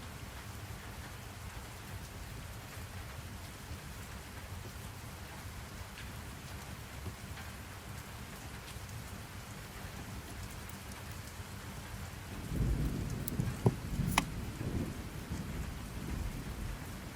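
Steady rain ambience. About twelve seconds in, a low rumble of thunder swells and fades over a few seconds, with a couple of sharp cracks in it.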